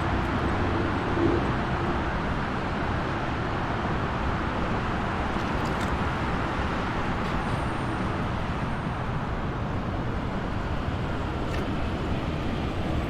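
Steady highway traffic: a continuous rush of passing vehicles' engines and tyres, with one vehicle briefly louder about a second in.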